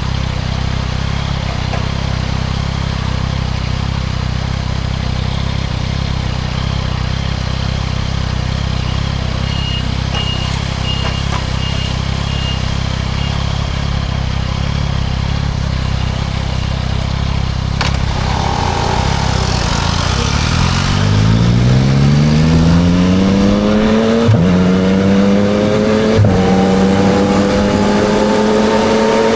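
2024 Yamaha MT-09 SP's 890 cc three-cylinder engine through a Spark aftermarket exhaust, idling steadily. About two-thirds of the way in it revs up as the bike pulls away, with two upshifts, each a short drop in pitch before it climbs again.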